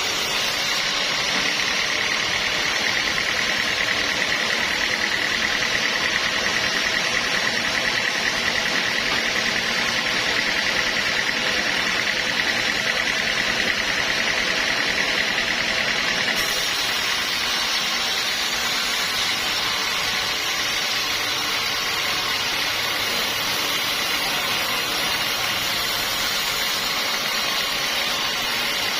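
Sawmill machinery running steadily with a dense mechanical noise. A steady whine in the first half fades a little past halfway.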